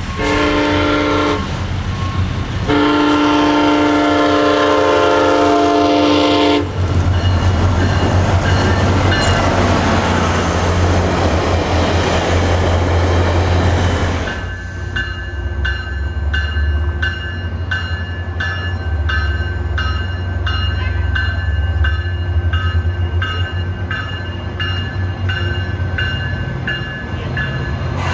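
Diesel passenger locomotive sounding its horn, a short blast then a long one, followed by the low rumble of the engine as the train passes close by. From about halfway through, a bell rings steadily about twice a second.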